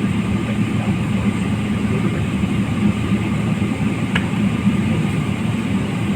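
Steady cabin noise of an airliner taxiing, its jet engines running with a low hum under an even hiss. There is a faint tick about four seconds in.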